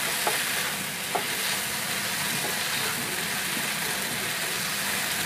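Chopped tomato, onion and cashews sizzling in a little oil in a non-stick frying pan, a steady hiss, while a slotted spatula stirs them. Two light knocks of the spatula come in the first second or so.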